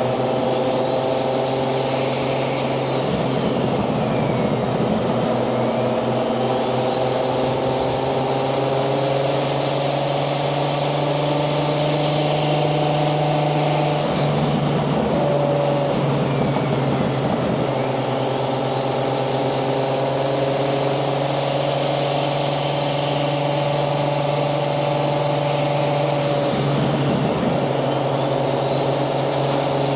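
Turbocharged Toyota 1JZ VVTi inline-six running under way, its engine note steady with a high turbo whine that climbs and falls in two long arcs. The engine note breaks briefly about 14 seconds in and again near 27 seconds.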